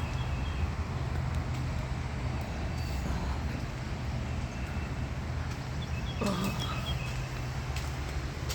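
A steady low rumble runs under everything. A little after six seconds a short series of faint, high small-bird chirps is heard, with a brief lower sound among them.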